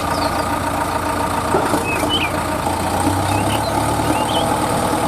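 Heavy vehicle's engine idling steadily, with birds chirping briefly every second or so.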